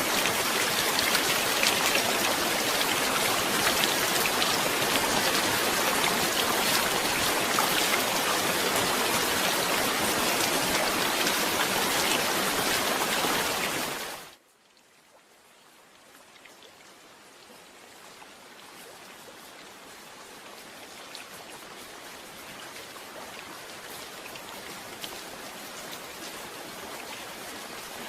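Steady heavy rain that drops away abruptly about halfway through, then fades gradually back in, quieter than before.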